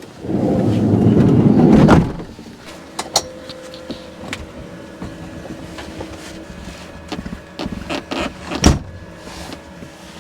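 A camper van's sliding door rolling along its track for about two seconds, followed by scattered clicks and knocks, with a sharper knock near the end.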